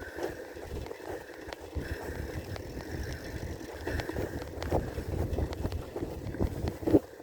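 Riding a bicycle, with wind buffeting the microphone as a gusty low rumble, scattered small rattles and clicks from the bike, and a sharper knock just before the end.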